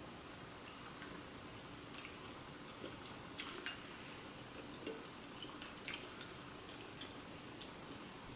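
Faint chewing and scattered small, wet clicks and smacks from eating fried chicken wings and pulling them apart by hand, over a low steady hiss.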